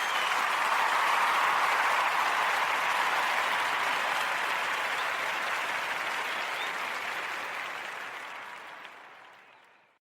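Crowd applause, a dense patter of clapping that swells in, holds, then fades out slowly over about ten seconds.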